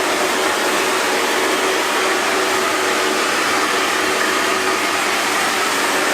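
Hair dryer running steadily: an even rushing blow of air with a faint steady motor hum underneath.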